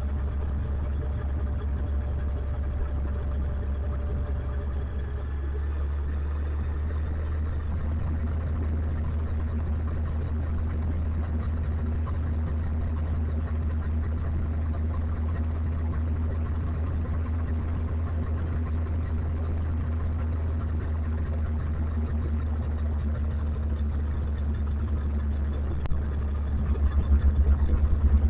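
Motorcycle riding along, engine running steadily under a strong low rumble. Near the end there is a single click, and the rumble turns louder and more uneven.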